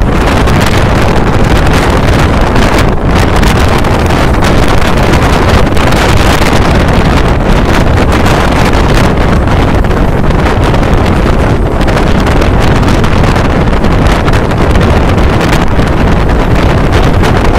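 Loud, steady wind buffeting the microphone held out of a moving Mumbai suburban electric local train, mixed with the train's running rumble on the track.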